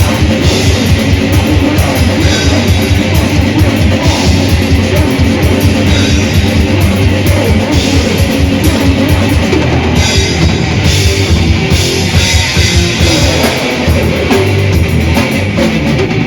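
Death/thrash metal band playing live and loud: distorted electric guitars riffing over fast, driving drum kit strokes.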